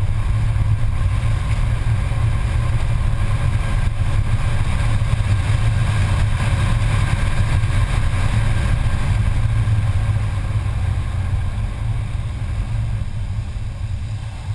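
Mercedes-Benz C280's engine running hard at track speed, heard from inside the cabin as a steady low drone mixed with road and wind noise. It gets somewhat quieter over the last few seconds as the car turns into a corner.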